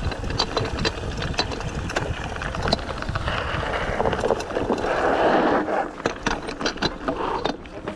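Bicycle riding over a rough forest trail: a steady rumble of tyres on the ground with many small clicks and rattles from the bike, and wind on the action camera's microphone.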